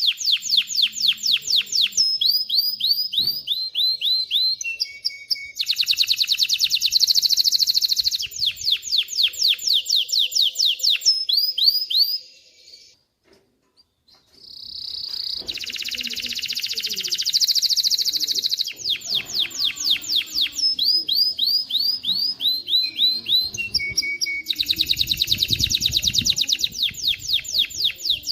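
Male canary singing: runs of rapidly repeated trilled notes, each run a different note type, switching every second or two. About halfway through there is a pause of about two seconds, and then the song starts again.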